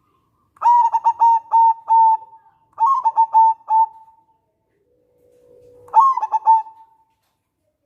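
Zebra dove (perkutut) singing: three phrases, each a quick run of short, clipped coos. The third phrase opens with a soft low hum before the notes.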